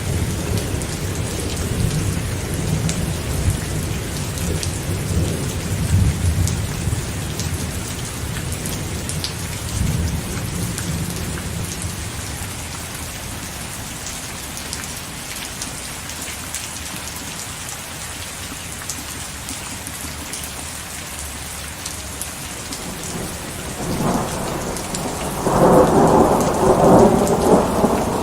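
Steady rain falling, with thunder rumbling low at first and dying away by the middle, then a louder, crackling peal of thunder near the end.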